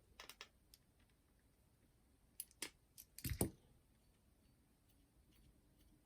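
A few short clicks and taps of small hard parts being handled, a couple just after the start and a cluster from about two and a half to three and a half seconds in, the last the loudest.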